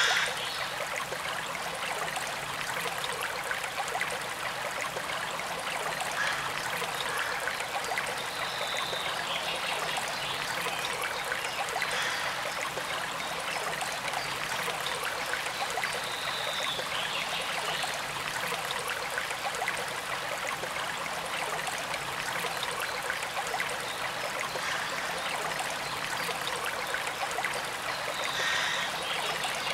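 Small forest stream running steadily, a constant rushing and trickling of water.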